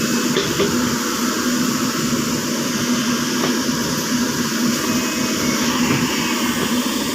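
Caterpillar 307.5 mini excavator's diesel engine running steadily, a constant hum over a dense mechanical drone.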